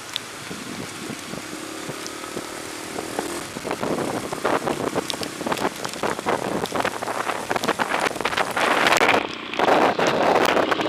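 Raindrops tapping directly on an action camera's bare microphone area in light to moderate rain: many sharp, irregular taps. Under them a rushing noise builds about four seconds in and grows loud near the end, dipping briefly for a moment.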